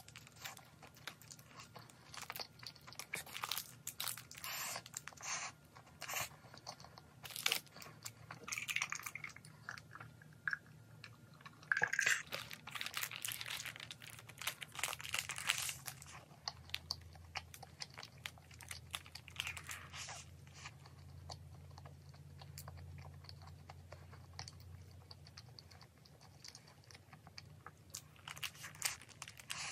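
Close-up eating sounds: biting and chewing a toasted garlic-bread egg sandwich, with crunches from the toasted crust. A stretch of paper rustling from the sandwich's wrapper sleeve comes a little before the middle.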